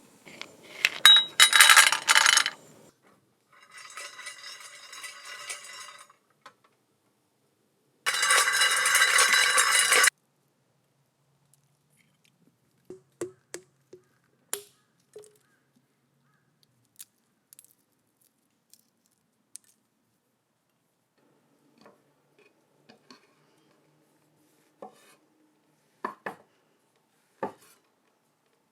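Cookware and utensils being handled during food preparation: two loud rushes of noise lasting a couple of seconds each with a fainter one between, then scattered light clinks and taps.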